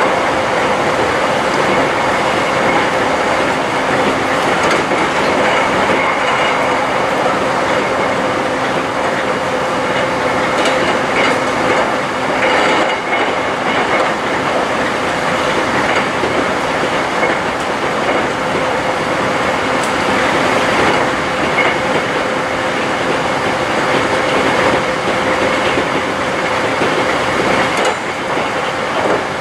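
Electric train running at speed, heard from inside the passenger car: a steady rumble of wheels on the rails with a steady hum, and occasional faint clicks from rail joints.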